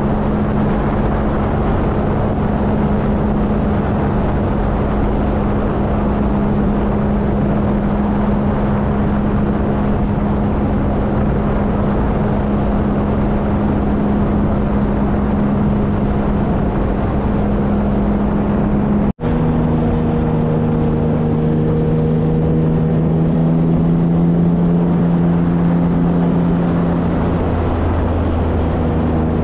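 2013 Triumph Trophy SE's 1215 cc inline-three engine running steadily under way, over a constant rush of wind and road noise. The sound cuts out for an instant about 19 seconds in, and the engine note then holds at a different, steady pitch.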